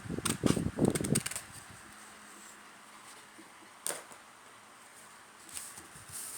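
Origami paper being handled and folded: a quick flurry of crackles and rustles in the first second or so, a single sharp tap about four seconds in, and soft rustling again near the end.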